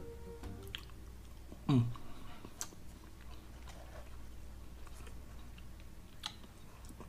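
A person chewing French fries with soft, scattered mouth clicks. Just under two seconds in comes a short falling vocal hum, the loudest sound; background music ends just after the start.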